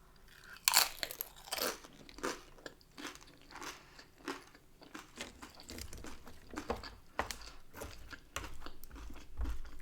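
A person chewing crunchy corn tortilla chips loaded with toppings: a loud crunch just under a second in, then repeated crunching chews at about one and a half a second.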